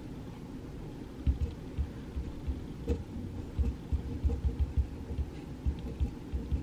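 Pencil writing on paper at a desk, heard mainly as irregular clusters of soft low bumps and taps through the desktop, with faint light scratching above them.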